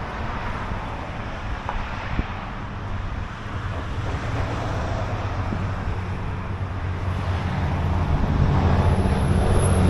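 Car engine idling steadily, growing louder toward the end, with wind on the microphone.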